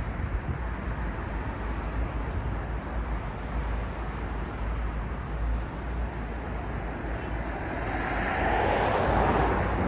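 City street traffic: a steady low rumble of road noise, with a vehicle passing close and growing louder near the end.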